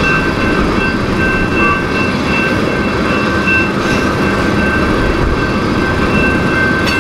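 Freight train of loaded tank cars rolling through a grade crossing, the steel wheels making a loud, steady rumble on the rails, with a couple of sharp clacks. A thin, steady high ringing tone runs over the rumble.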